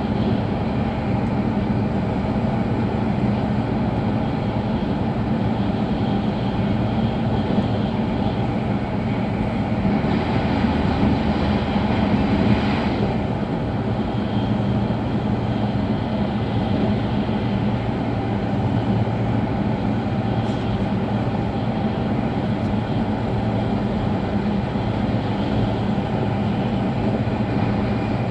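Running noise inside a passenger car of an E5-series Shinkansen travelling at speed: a steady low rumble with rushing noise over it, swelling briefly about ten to thirteen seconds in.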